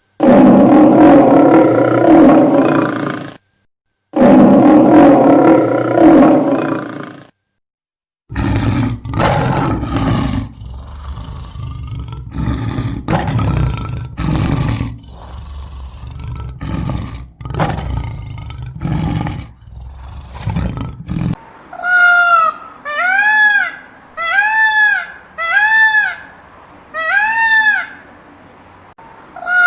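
A succession of animal calls. First come two long roars of about three seconds each. Then about thirteen seconds of rough, noisy calling broken by sharp clicks. Last, a run of short calls about one a second, each rising and falling in pitch.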